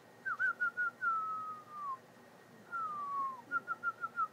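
A person whistling to call pigeons down into the loft: four quick short notes, a long falling whistle, a second long falling whistle, then a faster run of short notes ending in a drop.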